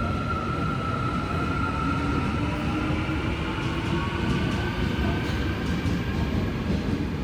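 Seoul Subway Line 4 electric train running on the track, with the rumble of its wheels and a whine from its drive made of several tones that rise slowly in pitch as it moves off. There are a few light clicks about four to five seconds in.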